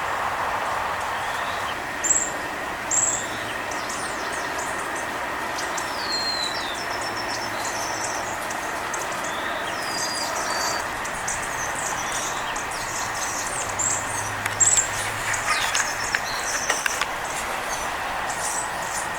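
Small songbirds chirping and whistling in short calls, with a cluster of chirps in the second half, over a steady hum of distant road traffic.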